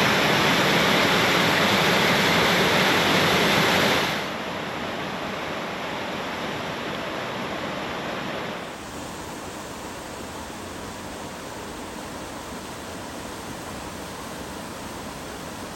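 Waterfall rushing steadily. It drops suddenly in loudness about four seconds in and again about halfway through, as the shots change.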